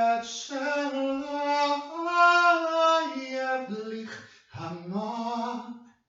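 A lone voice singing unaccompanied in slow, drawn-out held notes, stepping up in pitch about two seconds in and sliding down near four seconds, then stopping just before the end.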